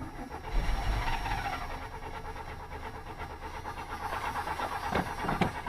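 Pickup truck's starter cranking the cold engine over in a steady, even rhythm without it catching. The owner wonders whether the fuel line is frozen or the fuel pump has died. A couple of sharp knocks near the end.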